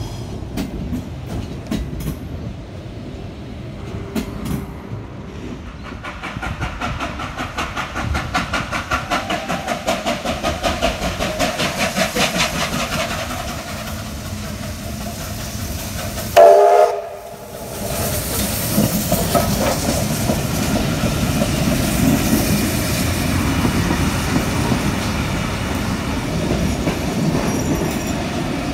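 A train running on rails, with a rhythmic clatter of wheels building up through the first half. Just past halfway comes one short, loud toot, the loudest moment, followed by a steady rumble.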